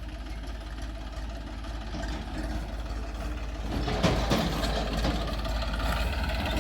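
Heavy diesel engine running steadily, growing louder, with a brief louder noise about four seconds in.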